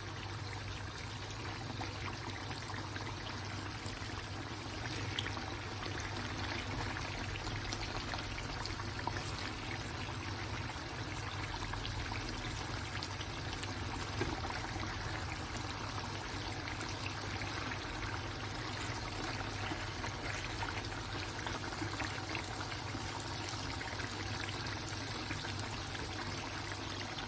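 Chicken sizzling as it cooks: a steady hiss with scattered small crackles.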